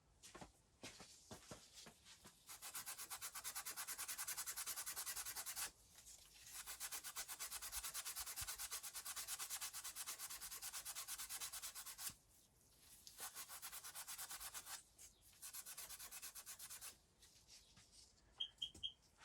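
Fast back-and-forth abrasive scrubbing of a metal contact, cleaning a suspect ground connection on a motorcycle that is getting no spark. It comes in four spells of steady strokes with short pauses between.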